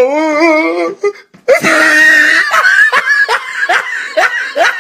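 A person laughing loudly: a wavering drawn-out vocal note, a short break, then a burst of laughter in quick repeated pulses.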